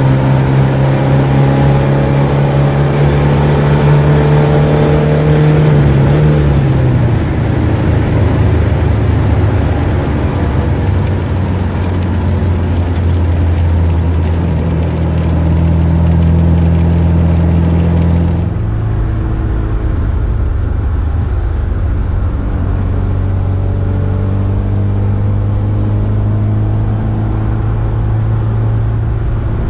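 1979 Alfa Romeo Alfetta's twin-cam four-cylinder engine heard from inside the cabin while driving, holding a steady note. About six seconds in the pitch falls as the revs drop, then it runs on at a lower, steady pitch.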